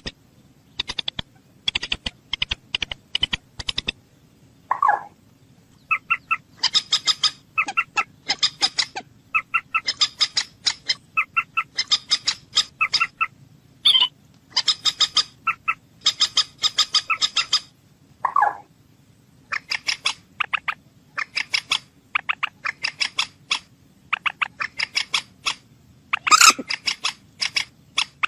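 Bird calling in quick bursts of short, clipped notes, each burst lasting about a second with brief pauses between, and twice a lower, drawn-out note.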